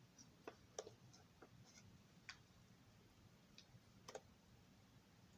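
Faint, irregular clicks and taps from a plastic model train car being handled and set down, against near silence.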